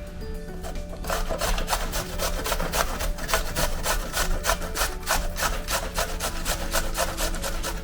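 Fresh ginger root being grated on a hand grater: fast, even rasping strokes, several a second, with a short pause about a second in.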